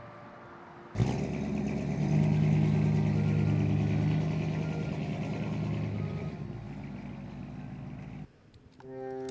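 A vintage 1960s sedan's engine comes in suddenly and loud about a second in as the car drives off, running steadily with a low hum, then fades as the car moves away. It cuts off near the end, and accordion music begins.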